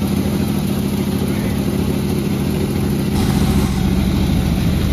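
Panda36 chainsaw's two-stroke engine running at a steady high speed, growing louder a little over three seconds in.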